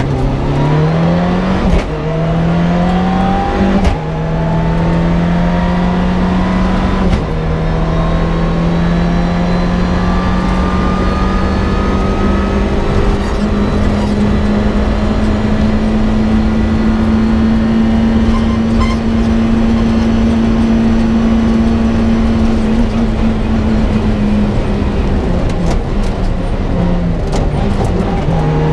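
A Mitsubishi Lancer Evo 6 rally car's turbocharged four-cylinder engine accelerating hard, heard inside the cabin. The engine note climbs and drops with quick upshifts about two, four and seven seconds in. It then holds a long high-revving run with the pitch slowly rising, and falls away near the end as the revs drop.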